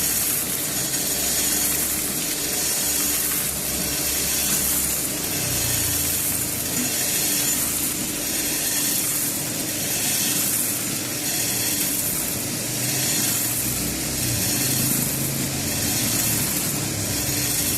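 Coffee roasting machine running: a steady hiss of moving air over a low motor hum, the hiss swelling and fading about every second and a half.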